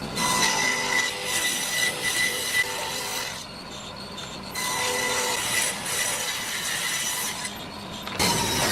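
Wood being worked with a tool: a steady rasping rub with a faint high whine, broken by a short lull about three and a half seconds in and getting louder near the end.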